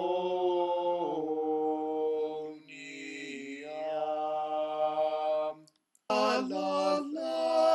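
Voices chanting long held notes in harmony, in the manner of a monks' chant. About six seconds in they pause briefly, then go on with shorter, quicker-changing notes.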